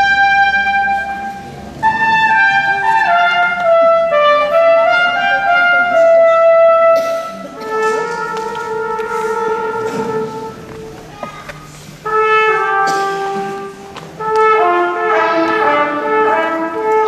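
Live instrumental music from wind and brass instruments, playing a melody in sustained phrases with short breaks between them, in a church.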